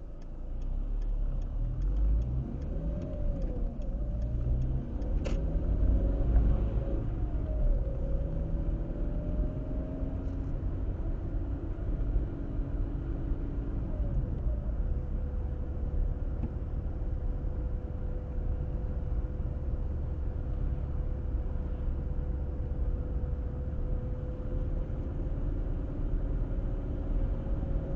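Car engine and road noise heard from inside the cabin as the car accelerates through the gears, engine pitch climbing and dropping, then settling into a steady cruise. A turn-signal indicator ticks at the start, and a single sharp click comes about five seconds in.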